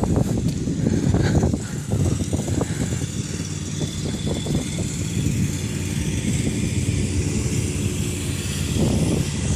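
Steady low rumble and rattling of a bicycle in motion, with wind buffeting the microphone.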